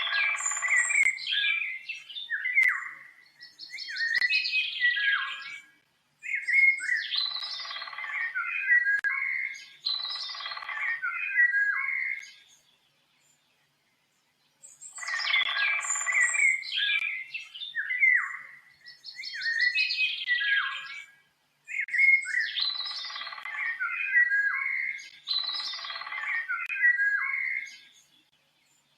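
A songbird singing complex warbling phrases in bouts of two to three seconds each, with a silent pause of about two seconds near the middle. The same run of phrases repeats in the second half, as from a looped recording.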